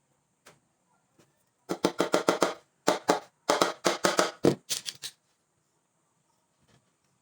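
A rapid series of sharp knocks, about six a second, in four quick bursts starting nearly two seconds in, with single faint taps before and after.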